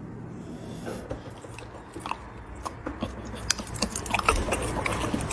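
A dog chewing and gnawing on something held for it: a run of irregular crunchy clicks that grows busier about halfway through.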